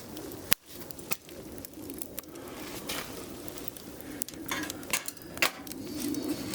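Wood fire crackling in a firewood grill: irregular sharp pops and snaps over a steady low rush of burning.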